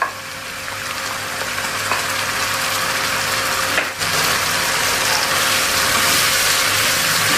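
Shallots, garlic, ginger and freshly added chillies frying in hot oil: a steady sizzling hiss that grows louder over the first few seconds.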